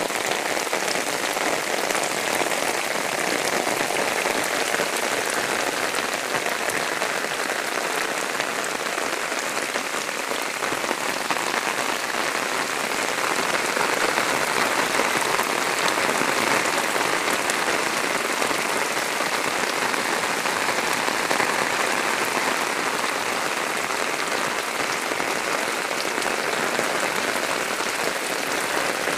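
Steady rain falling and splashing on the ground, an even hiss without pauses.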